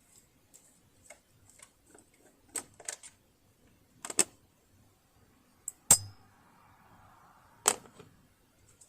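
Irregular sharp clicks and knocks of a screwdriver, screws and parts being handled on a household sewing machine during disassembly. There are about a dozen of them, and the loudest knock comes about six seconds in.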